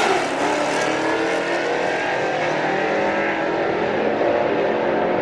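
Drag-race cars running at full throttle down the strip. The engine note dips in pitch just after the start, then holds steady while the sound grows duller toward the end.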